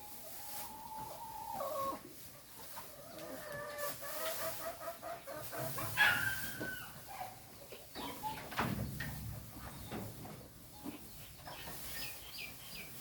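Chickens: a rooster crowing with a long held call in the first two seconds, and hens clucking, with short high chirps near the end.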